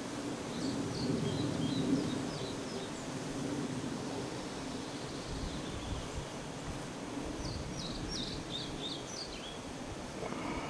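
Small bird chirping outdoors in two quick runs of short high notes, one near the start and another about seven and a half seconds in, over a steady low background rumble.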